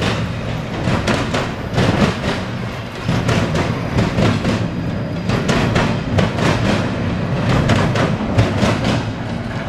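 Freight train's intermodal cars rolling past, the wheels clicking over rail joints in a steady clickety-clack over a low rumble.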